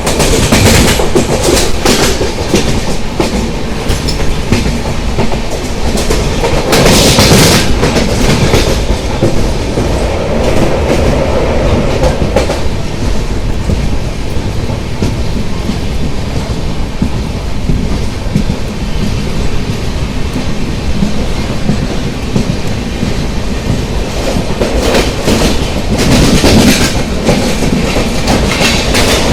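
Mumbai suburban local train running, heard from on board: a continuous loud rumble with wheels clattering over the rail joints. A louder rush swells about seven seconds in and again near the end.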